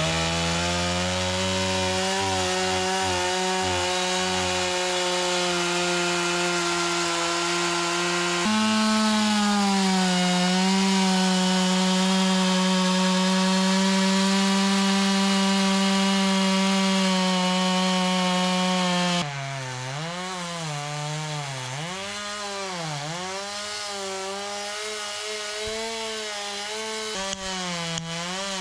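Two-stroke gas chainsaw running at high speed, with a step up in pitch about eight seconds in. In the last third it drops a little in level and its pitch repeatedly dips and recovers, about once a second, as it loads up in the cut.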